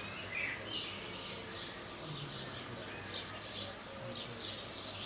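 Birds chirping: a series of short high calls over a faint, steady low hum.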